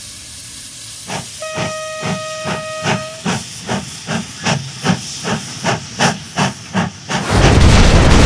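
Cartoon steam-train sound effect: a locomotive starts chuffing about a second in, at about two and a half chuffs a second, with a steady steam whistle sounding for nearly two seconds early in the chuffing. Near the end a loud rushing hiss takes over.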